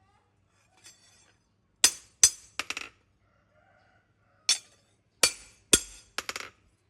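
Sharp, bright metal-on-metal clinks with short ringing tails: about ten hits, alone or in quick twos and threes, the first about two seconds in.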